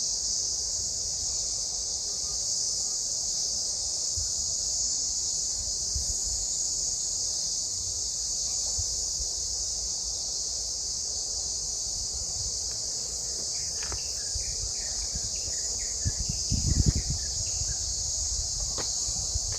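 Cicadas singing in a continuous high, steady chorus. A brief low rumble hits the microphone near the end.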